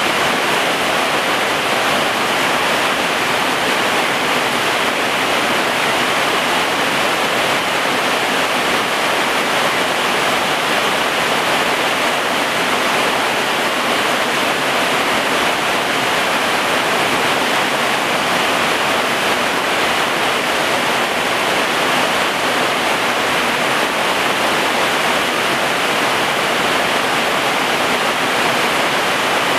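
Heavy rain pouring steadily onto garden plants and ground: an even, unbroken hiss.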